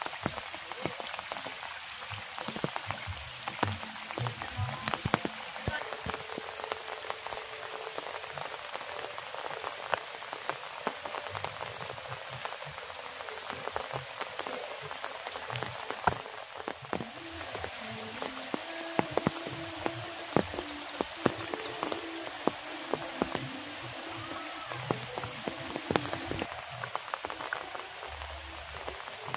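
Steady rain falling, with many nearby raindrops striking as distinct sharp ticks over an even hiss.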